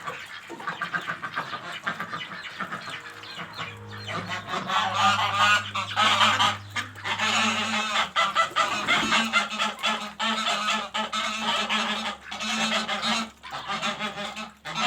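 Domestic geese honking, many loud calls overlapping, growing busier from about four seconds in.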